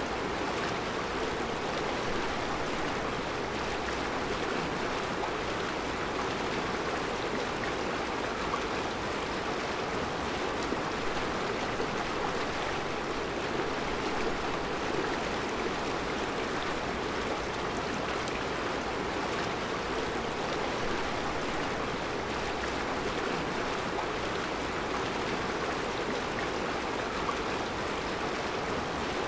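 Mountain river flowing over round rocks in a rocky bed: a steady, even rush of water that does not change.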